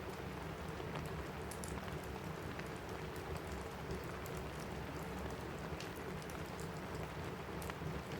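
Steady rain pattering on a cabin roof, mixed with a wood fire crackling in a fireplace: scattered sharp pops over an even wash of rain.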